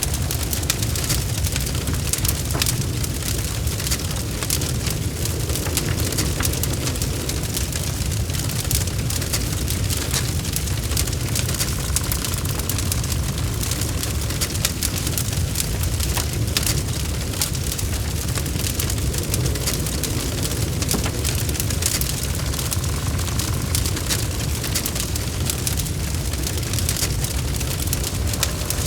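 Logs burning in a fireplace: a steady low rumble with dense, irregular crackles and pops.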